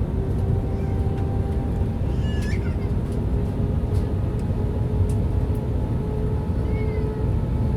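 Airbus A320 cabin noise on approach: a steady rumble of airflow and the IAE V2527 turbofan engines, with a droning engine tone that creeps slightly up in pitch. Two brief high chirps come through, about two seconds in and again near the end.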